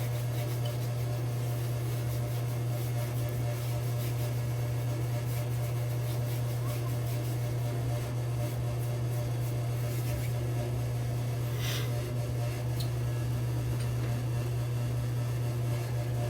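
A steady low hum, the background of the room, with a few faint small clicks, loudest about twelve seconds in.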